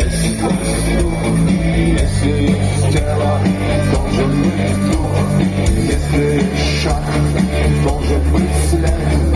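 Live rock band playing a song: guitar over bass and drums, loud and continuous.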